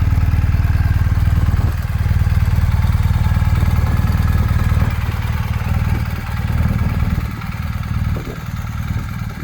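Motorcycle engine running steadily with a rapid firing beat. It gets quieter in steps over the last few seconds.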